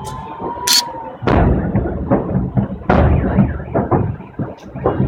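Fireworks salute going off. Two sharp cracks come in the first second, then two heavy booms about a second and a half apart, with smaller pops and crackles between and after.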